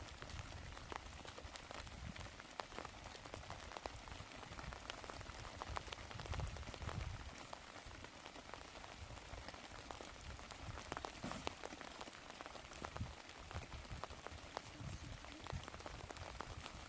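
Steady rain falling, with many small drops ticking on a surface; a low rumble swells and fades a few times.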